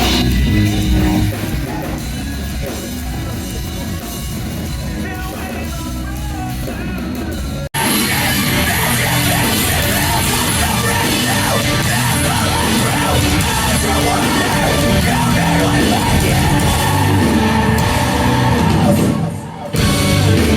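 Live rock band playing loudly with sung and yelled vocals. An abrupt cut about eight seconds in jumps to a louder, denser passage, and there is a brief drop in level near the end.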